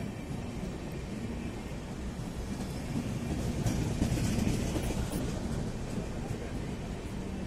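Passenger coaches of an arriving express train rolling past on the rails, a steady rolling noise that swells a little about four seconds in.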